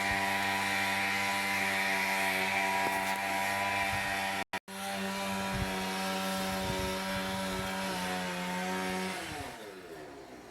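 A motor running at a steady pitch, then switched off about nine seconds in and winding down, its pitch falling as it fades.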